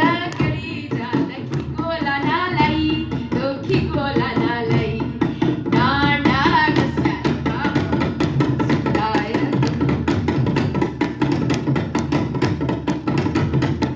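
Garhwali dhol and damau drums played together in a fast, steady rhythm of a traditional taal. A voice sings over the drumming for about the first half, then the drums carry on alone.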